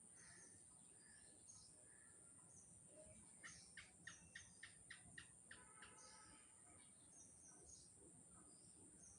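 Faint wild birdsong: scattered chirps, with a quick run of about ten sharp notes in the middle, over a steady high-pitched whine.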